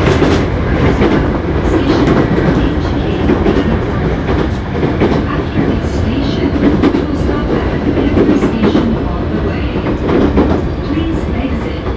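Hankyu 7300-series electric commuter train running, heard from inside the car: a steady rumble of wheels on rail with scattered clicks as the wheels pass over rail joints.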